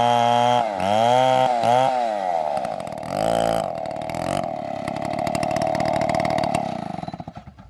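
STIHL chainsaw revving in several short throttle bursts, its pitch swooping up and down, then running steadily at a lower pitch before dying away with a fluttering sound near the end.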